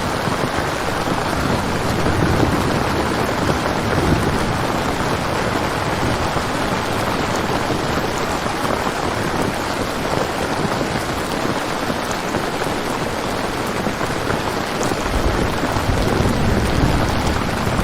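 Steady heavy rain. About fifteen seconds in, a low rumble of thunder rises under it.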